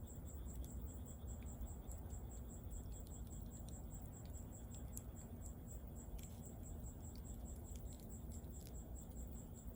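A cricket chirping steadily, about four short pulses a second, over the low rush of a wood fire with scattered small crackles and pops.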